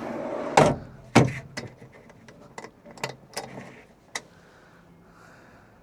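Two loud knocks about half a second apart, then a run of lighter clicks and taps that die out about four seconds in.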